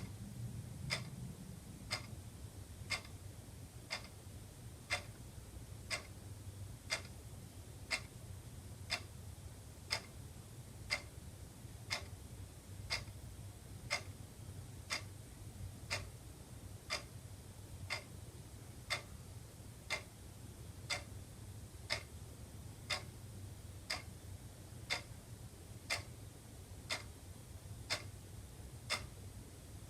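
Wall clock ticking steadily, one sharp tick each second, over a low steady hum.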